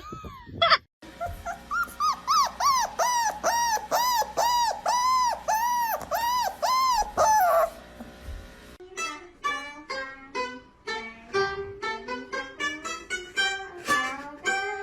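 A dog giving a run of rising-and-falling whining calls, about two a second, for several seconds. After a short pause, a second, lower stretch of pitched yelps follows with music.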